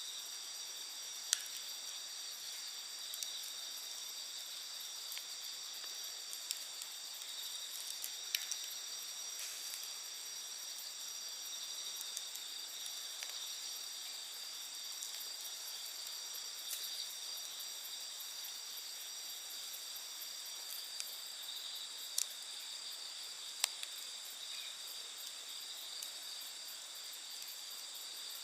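Night insects trilling steadily at several high pitches, one of them stopping about two-thirds of the way through, over an open-air campfire that gives a few sharp wood pops and crackles.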